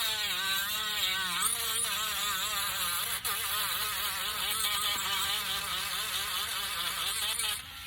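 Electric sander running with a steady whining buzz, its pitch wavering slightly; it cuts off just before the end.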